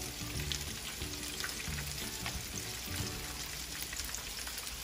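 Breaded chicken fingers sizzling and crackling in a pan of hot oil, a steady fry with many small pops. The oil is hot enough for frying. Background music plays underneath.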